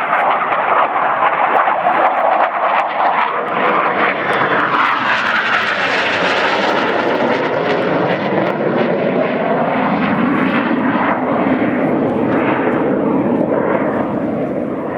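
Fixed-wing aircraft flying past: loud engine noise that builds to a peak about six seconds in, then drops in pitch as the plane goes by and moves away.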